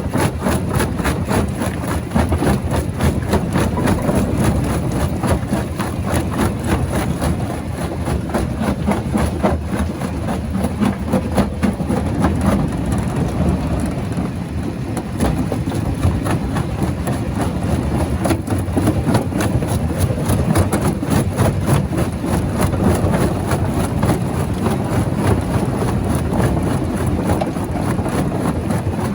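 Large rock crusher running, a heavy machine drone under a dense, continuous clatter of rock cracking and knocking.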